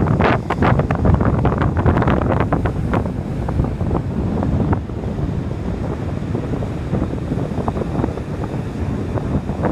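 Gusty wind buffeting the microphone in a rumbling roar, crackling sharply through the first half and easing somewhat after, over ocean surf breaking on the beach.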